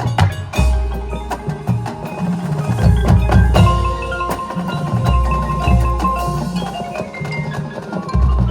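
High-school marching band playing its field show, with percussion to the fore: front-ensemble mallet instruments and sharp wood-block clicks. Long low bass notes swell in roughly every two seconds.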